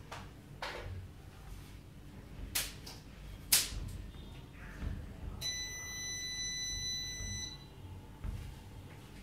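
A few sharp clicks and knocks, the loudest about three and a half seconds in, then a single steady electronic beep about two seconds long from the UPS's buzzer, starting about five seconds in.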